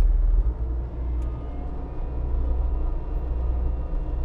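Compact track loader's diesel engine running steadily with a low rumble, its stump grinder attachment fitted.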